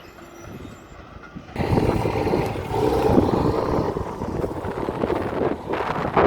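Heavy road-construction vehicle running: a low rumble that jumps abruptly to much louder noise about a second and a half in and stays loud.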